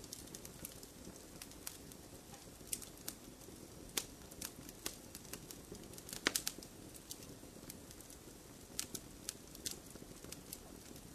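Wood fire crackling and popping in a fireplace, with irregular sharp pops over the low steady rush of the flames and a short cluster of louder pops about six seconds in.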